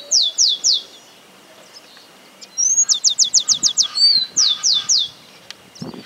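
Songbird singing in short runs of quick, high whistled notes, each sliding downward. A fast run comes a few seconds in, with a few slower notes before and after.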